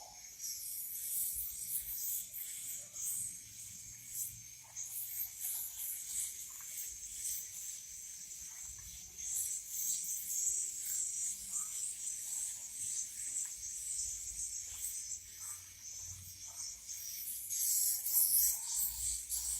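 Swiftlets making a dense, high-pitched twittering that swells and fades, with a few faint ticks.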